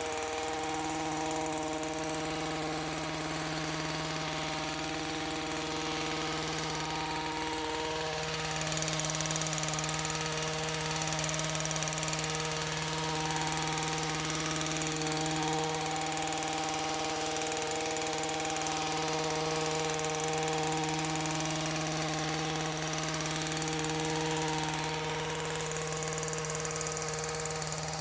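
Gas hedge trimmer's small engine running steadily at high speed while trimming a bush.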